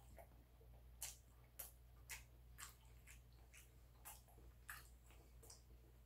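Faint wet mouth clicks and smacks of someone chewing food, short and irregular, roughly two a second.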